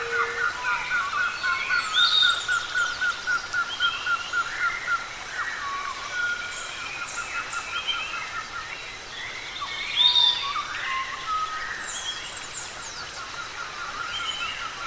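Several forest birds calling at once. One repeats a fast string of short notes that breaks off about five seconds in and starts again twice, while others add scattered whistles and sweeping notes, some quite high.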